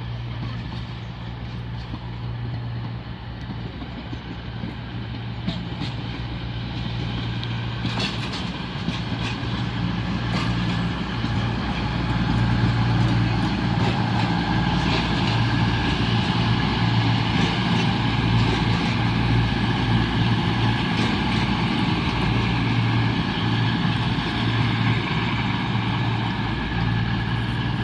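Diesel train's engines running with a steady low hum, growing gradually louder, with a few brief clicks partway through.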